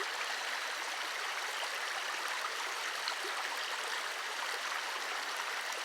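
Mountain river rushing steadily over rocks, a constant even rush of water.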